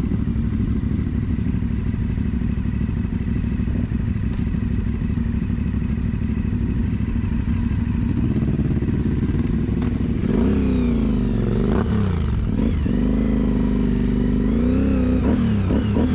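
Aprilia Dorsoduro 750's 750 cc V-twin engine, recorded onboard. The engine note is steady at first; about two-thirds of the way through, the revs start rising and falling repeatedly as the rider works the throttle and gears.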